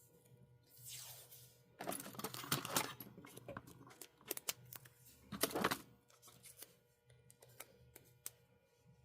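Adhesive tape being pulled from the roll and handled: a short peeling sweep about a second in, then two bursts of crackling with scattered small clicks.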